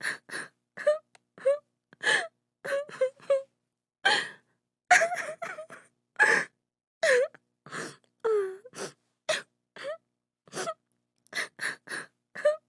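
A woman sobbing: quick gasping breaths and short wailing cries, several a second, some with a pitch that slides up or down.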